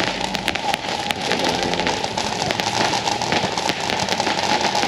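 Fireworks crackling: a dense, steady stream of many small sharp pops.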